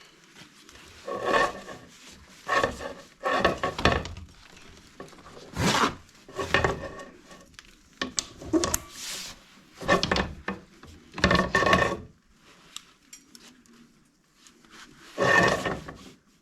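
Chimney sweep's brush scraping against the inside of a chimney flue as the rods are worked up it, in about ten irregular strokes with short pauses between, some with a faint hollow ring.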